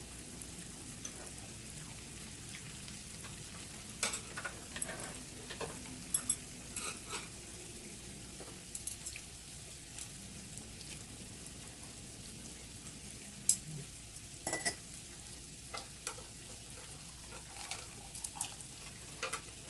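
Beef and prawns sizzling on a grill, a steady hiss broken by scattered light clicks of utensils.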